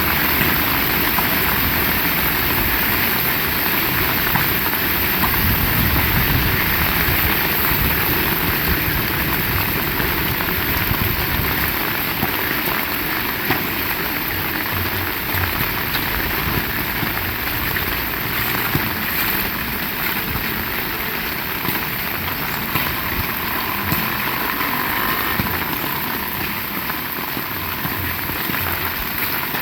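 Heavy rain falling in a steady, loud hiss. A low rumble runs under it for roughly the first ten seconds and then eases off.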